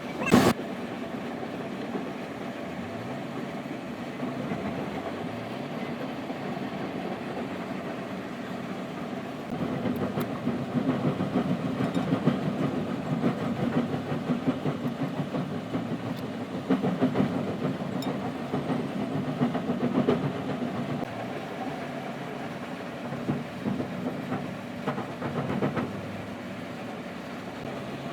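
Wheel loader's diesel engine running steadily, growing louder and rougher for a stretch in the middle before settling back. A single sharp click just at the start.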